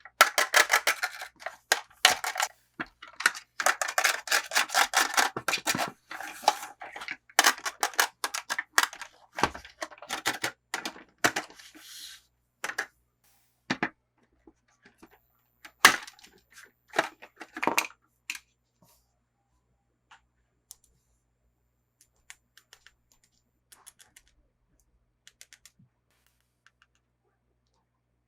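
Toy packaging being opened by hand: dense crackling and crinkling with sharp clicks for about the first twelve seconds, then scattered light clicks and taps that grow sparse.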